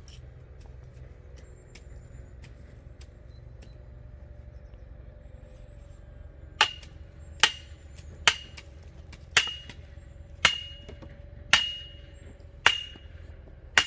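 A hammer striking metal, eight ringing blows about one a second, starting about halfway in: driving an iron stake or post that someone holds steady.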